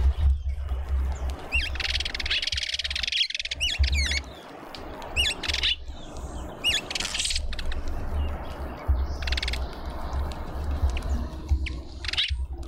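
Small garden birds chirping in several short bursts of quick, high, sweeping notes, over a steady low rumble.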